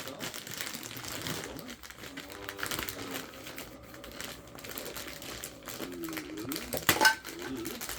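Packaging rustling and crinkling as vacuum accessories are handled and unpacked, with a sharp knock about seven seconds in.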